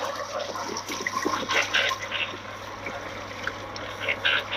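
Seawater splashing and trickling in irregular spurts as a gill net heavy with fish is hauled aboard a fishing boat, over a steady low hum.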